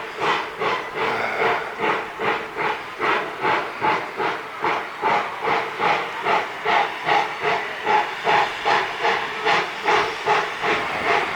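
Exhaust of D&RGW No. 346, a narrow-gauge 2-8-0 steam locomotive, working slowly up a grade: an even, steady beat of steam chuffs, about two to three a second.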